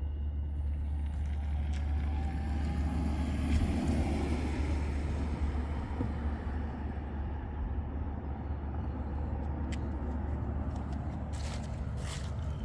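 Street traffic: a car passes about four seconds in, over a steady low rumble. A few sharp clicks come near the end.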